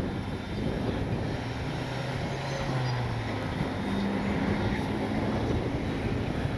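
Strong wind buffeting a wind-muffed microphone in a dense low rumble, with a steady low drone of heavy machinery, a debris grinder, running underneath.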